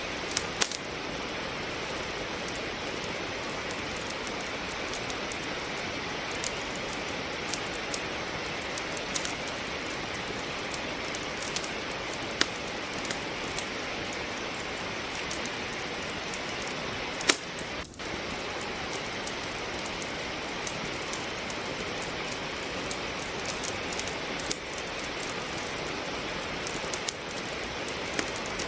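Steady rain with a wood fire crackling in a fireplace: an even hiss of rainfall under scattered sharp pops from burning logs, the loudest pop a little past halfway, followed by a brief dip in the sound.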